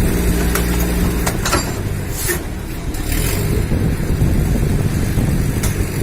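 Motor vehicle engine running steadily close by, amid road traffic noise, with a few short sharp clicks and a brief hiss a little after two seconds.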